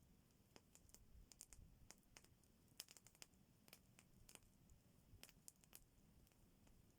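Faint campfire crackling: irregular sharp snaps and pops, several a second, from burning wood.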